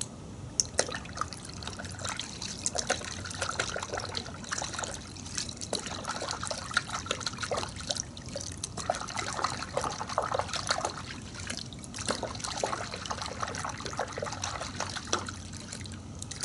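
Liquid trickling and splashing in a wash bucket of warm water as car wash soap is added, with irregular small splashes throughout.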